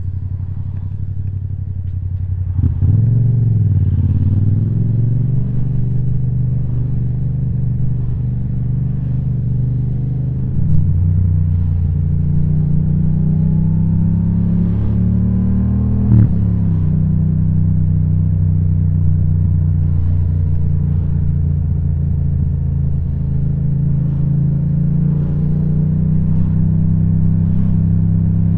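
Yamaha MT-07's 689 cc parallel-twin engine running through an Akrapovič titanium exhaust while the bike is ridden on the road. The revs dip and rise about three seconds in and climb again around ten seconds. There is a brief sharp spike about sixteen seconds in as the pitch drops back, like a gear change, and then a steady cruise.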